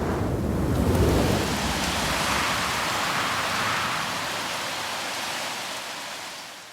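Blizzard wind blowing hard, a low rumbling gust at first, then a steady rushing that fades away near the end.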